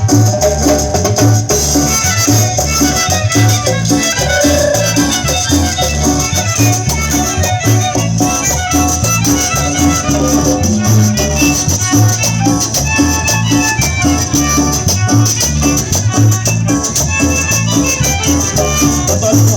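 Chanchona band playing an instrumental cumbia live: a steady bass-driven beat with rattling shaker-type percussion and melody on top.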